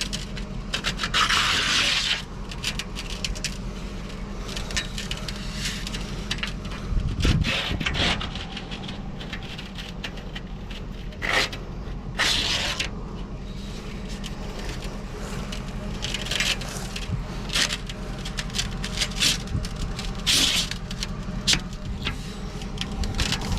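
Scraping, rubbing and sharp clicks and knocks of objects being handled, in irregular bursts over a steady low hum. The longest scrapes come about a second in, about twelve seconds in and about twenty seconds in.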